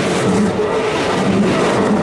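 Keikyu 2100 series electric train running past on the rails, a loud, steady noise.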